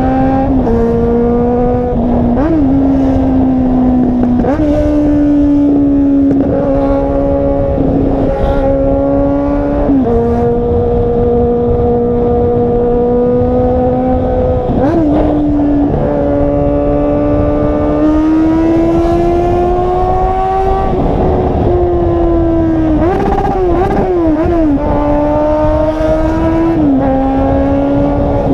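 Car engine revved hard and held at high revs, a steady high-pitched note with small steps up and down and brief dips and wobbles, especially past the twenty-second mark.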